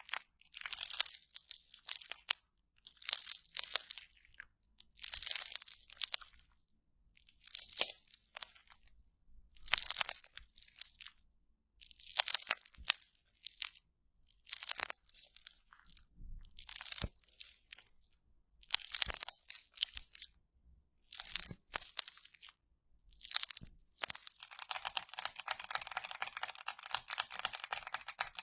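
Crunchy slime being squeezed and pressed again and again, giving about eleven crackling crunches roughly two seconds apart. From about 24 seconds in, these give way to a continuous dense crackling.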